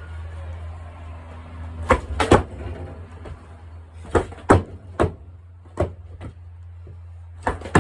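Skateboard deck and wheels clacking on the ground during stationary tricks: about eight sharp knocks, some in quick pairs, over a steady low hum.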